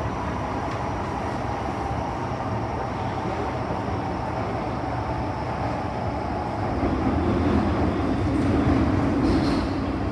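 MTR M-Train electric metro train running on the line, heard from inside the carriage: a steady rumble of wheels on rail with a faint traction-motor hum, growing louder from about two-thirds of the way in.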